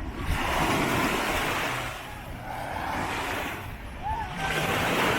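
Small sea waves breaking and washing up on a sandy beach: two rushes of surf a few seconds apart, each swelling and fading away.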